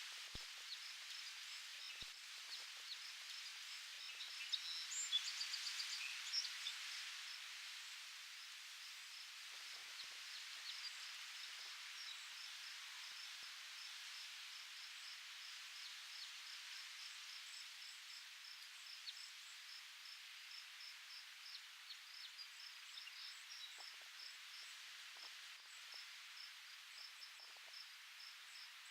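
Faint outdoor ambience: a steady hiss of wind in the leaves, with short high chirps repeating evenly throughout and a brief burst of bird calls about five seconds in.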